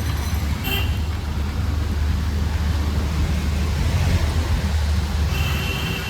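Steady low rumble of a motor vehicle running close by, in the noise of street traffic, with a brief high tone near the end.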